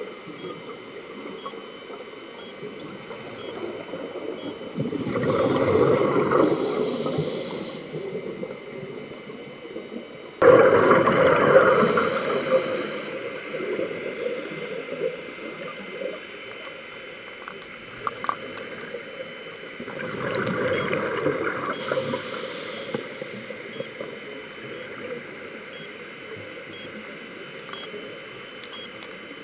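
Scuba regulator exhaust bubbles gurgling underwater, in three bursts about five, ten and twenty seconds in. The middle burst starts suddenly and is the loudest, over a steady background hiss.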